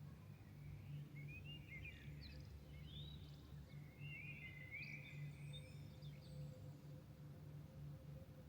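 Songbirds singing at dawn: a string of short chirping and warbled phrases in the first six seconds or so, faint over a steady low hum.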